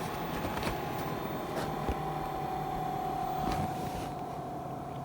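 Vevor diesel heater's blower fan running on in its cool-down cycle after being switched off, a high-pitched whine that slowly falls in pitch as the fan winds down, with a few faint clicks.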